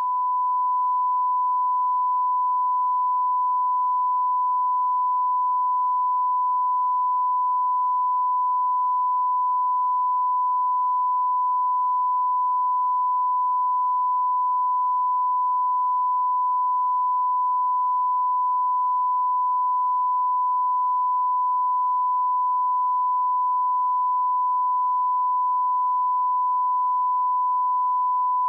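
A steady electronic beep tone, one pure pitch held without a break or wavering, swelling up to full loudness in the first second.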